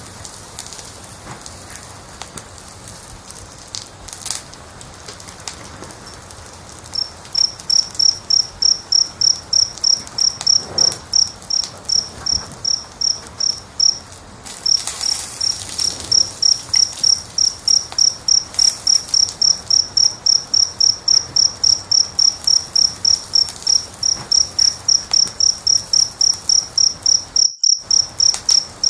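A cricket chirping steadily at about three chirps a second, starting about a quarter of the way in with a short pause midway, over the faint hiss and crackle of a wood fire.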